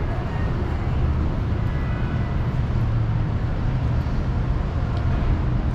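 Steady low rumble of city street background noise, with no distinct event standing out.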